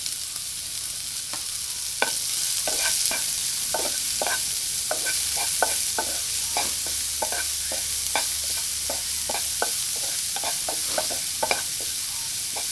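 Onion frying in hot oil with ginger, garlic and green chillies, a steady sizzle, while a spoon stirs it, knocking and scraping against the pan a few times a second from about two seconds in.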